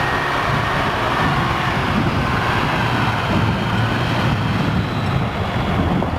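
1982 Ford flatbed crane truck's engine idling steadily, a low even rumble with no revving.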